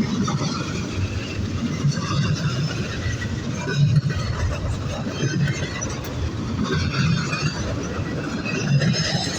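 A train rolling past: a steady rumble of wheels on rail with a heavier thump about every second and a half, and brief squeals and clinks from the wheels.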